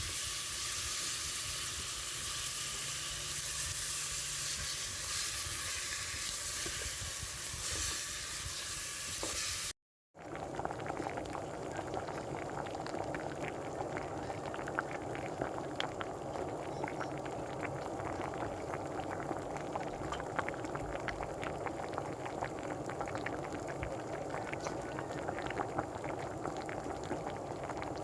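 Pork and chicken frying in a pan with a steady high sizzle. After a brief cut about a third of the way in, a pot of liquid bubbles at a boil with many small pops.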